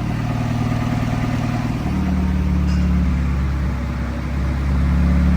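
Honda B18 four-cylinder engine running steadily at idle with no exhaust fitted, its note shifting slightly about two seconds in.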